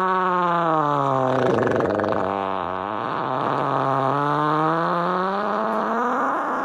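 A cat giving one long drawn-out yowl. Its pitch sinks over the first couple of seconds, then slowly rises again before it stops near the end.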